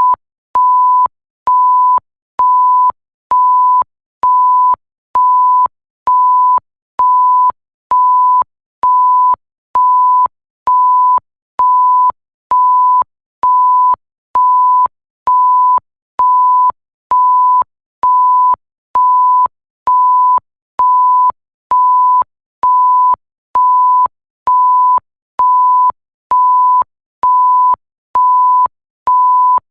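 Electronic bleep sound effect: a single steady pure tone repeating at an even pace, about one beep a second with short gaps between, each beep starting and stopping with a faint click.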